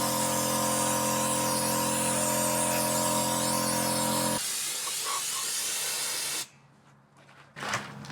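Sandblasting: a steady hiss of abrasive blast air with a motor hum under it. The hum stops about four seconds in, the hiss cuts off about two seconds later, and near the end there is a knock followed by light clattering.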